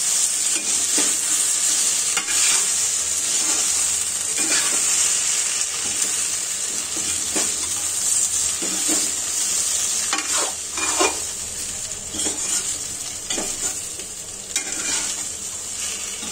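Taro root pieces and ground spices frying in oil in a metal kadai: a steady sizzle, with a metal spatula scraping and knocking against the pan at irregular moments as the masala is stirred and roasted.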